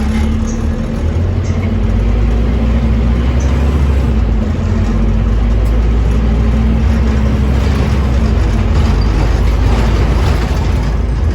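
Scania OmniCity bus's diesel engine running steadily under way, a low drone that grows a little louder about two seconds in.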